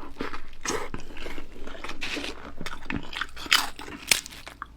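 Close-miked biting and chewing of a burrito with a grilled, crisped cheese crust: a run of irregular crunches, with a couple of sharper crunchy snaps near the end.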